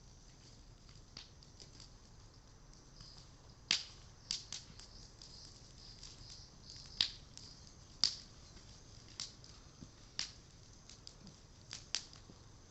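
Japanese cedar (sugi) timber burning in a bonfire, crackling with about ten sharp, irregular pops, the first nearly four seconds in. A steady high hiss runs beneath them.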